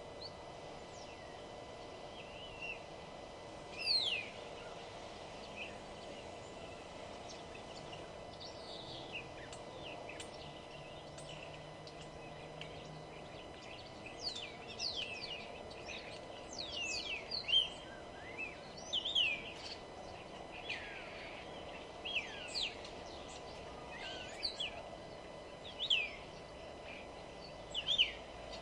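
Small birds chirping, a string of quick high chirps that sweep downward in pitch, few at first and coming thick and fast from about halfway in, over a steady background hum.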